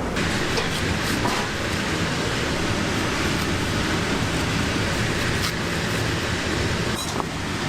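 Steady, even hiss of kitchen noise, with a few light clicks and clatters near the end.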